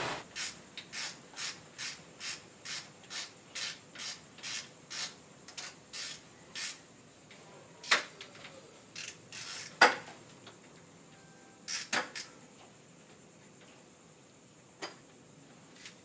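Hand ratchet wrench being worked in short strokes, clicking about twice a second for several seconds. A few separate, louder sharp metal knocks follow.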